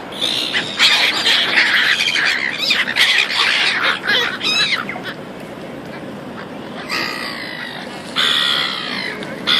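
Several gulls squawking, with many calls overlapping in the first half, then two shorter bursts of calls in the second half.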